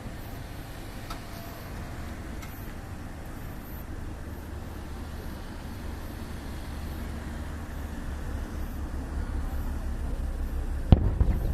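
Low rumbling of firework bursts, building slowly, then a sharp loud fireworks bang near the end.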